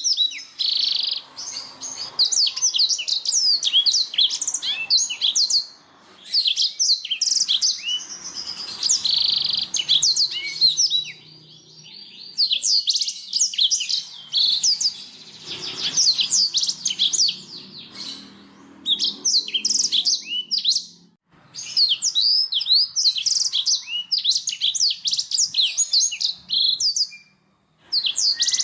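Domestic canary singing: long phrases of rapid, high chirps and trills with short pauses between them.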